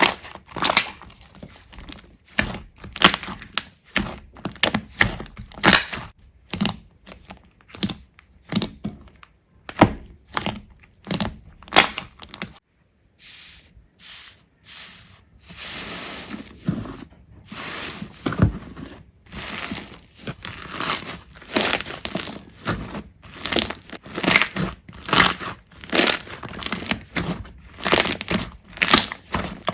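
Slime being worked by hand, giving a dense run of irregular crackles and pops, with a short pause about twelve seconds in.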